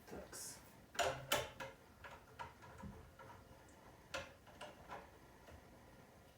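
Irregular light clicks and knocks from hand tools handling metal parts during refrigerator repair work, the loudest pair about a second in, with a short hiss near the start.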